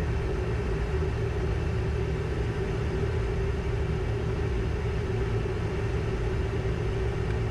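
Steady cockpit noise of a Learjet 60XR on final approach, gear down and flaps full: rushing air and engine noise with a low rumble and a constant hum.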